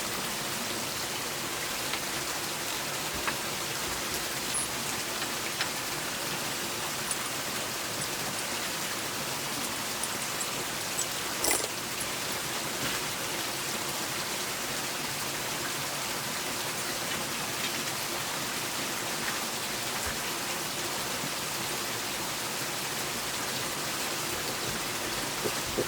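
Pressurised water jetting and spraying steadily from a microhydro supply pipe that has pulled out of its coupling: a constant, even hiss of spray, with a faint knock or splash now and then.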